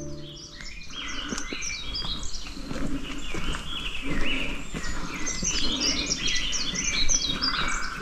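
Several songbirds chirping and singing together in a forest, many short overlapping high notes and trills.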